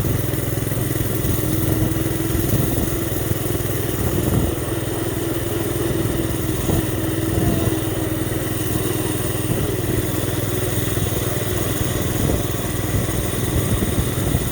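Small motorcycle engine running steadily while ridden, a constant drone with a higher whine that comes in after a second or so and fades out around the middle.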